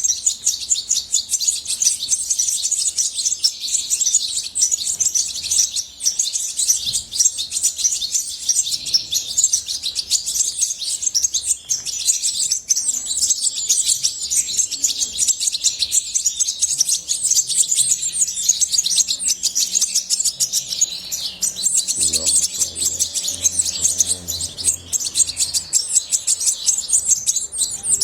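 European goldfinch singing: a fast, unbroken stream of high twittering chirps and trills.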